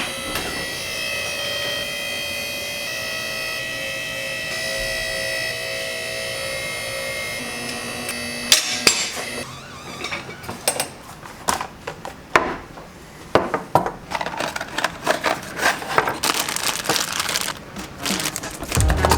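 Car lift's electric hydraulic pump motor whining steadily for about eight seconds as the car is raised, stopping with a knock. After that comes a run of irregular metallic clicks and clanks of tools and parts.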